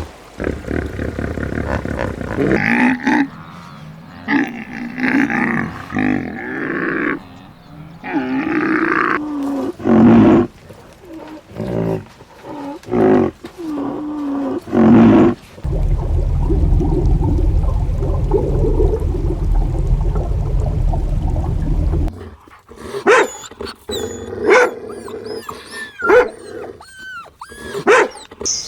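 A run of big-cat roars and growls, each call breaking off after a second or two, then a steady low rumble for several seconds. Near the end come quick bird whistles and chirps that rise and fall.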